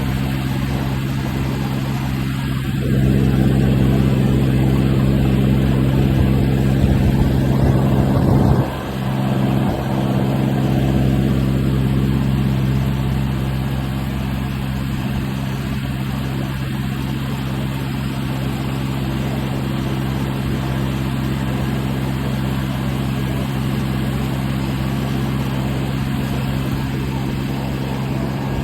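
1969 John Deere 2520 gas tractor's four-cylinder gasoline engine running steadily. It gets louder about three seconds in, then drops back suddenly just before nine seconds and runs on evenly.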